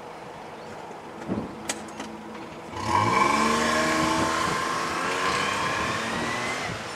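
Daihatsu Mira Gino L700S's naturally aspirated 660 cc three-cylinder engine heard through an RK-CLUB center-exit pipe muffler. It makes a short blip and a click, then about three seconds in it revs up sharply and eases slowly back down in pitch and loudness.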